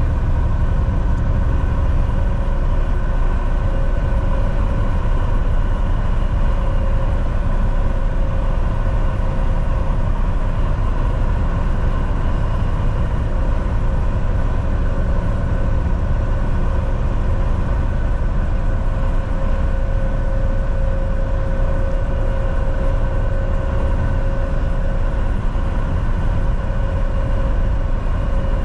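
Volvo VNL 760 semi truck cruising at highway speed: a steady diesel engine drone and road noise, with a constant whine held at one pitch.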